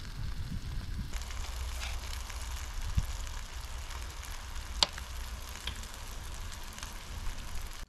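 Pancake batter sizzling on a hot flat-top griddle, a steady frying hiss, with a couple of sharp taps, the sharpest about five seconds in.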